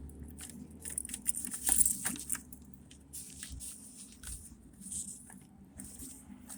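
Footsteps on pavement with small scattered clicks and rustles, loudest about two seconds in.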